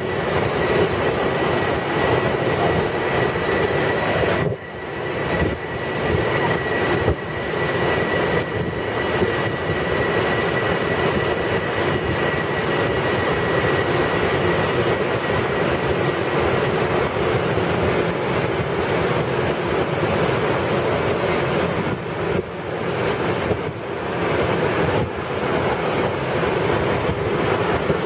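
Bombardier M7 electric multiple-unit train running on the tracks: continuous wheel-on-rail running noise with a thin steady high whine over it that fades out about halfway through.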